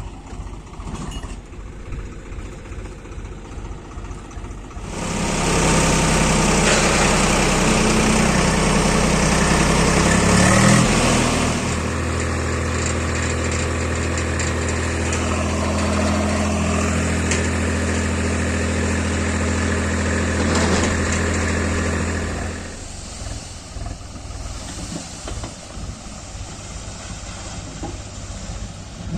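Heavy diesel machinery engine idling, then revving up hard about five seconds in and running loud under load for around seventeen seconds, its pitch shifting once partway, before dropping back to idle.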